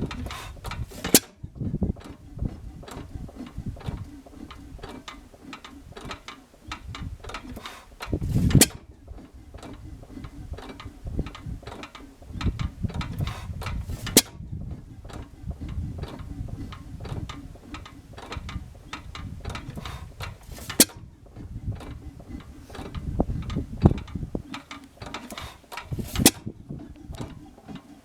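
1918 5 hp Monitor horizontal hit-and-miss engine running slowly on a light governor spring. Its valve gear and governor click steadily as it coasts, and it fires with a sharp bang about every few seconds, six times.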